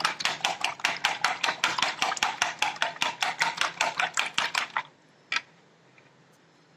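Eggs being beaten by hand in a bowl: a utensil clicking quickly and evenly against the bowl, about six strokes a second, stopping about five seconds in, followed by one light tap.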